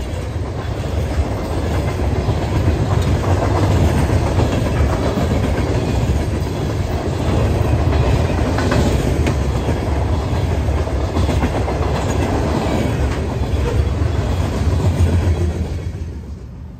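Freight cars of a Norfolk Southern train rolling past, a heavy low rumble of steel wheels on rail with scattered clicks. The sound falls away near the end as the last car passes.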